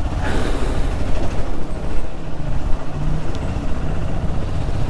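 Motorcycle on the move: wind noise rushing over the on-board microphone, with the Hero XPulse 200's single-cylinder engine running steadily underneath.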